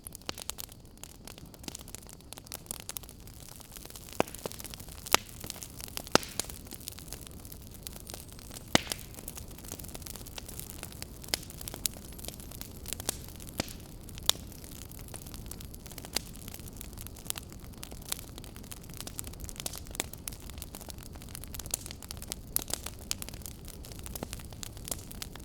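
Wood fire in a fireplace crackling: a steady low hiss with irregular sharp pops and snaps, a few of them louder.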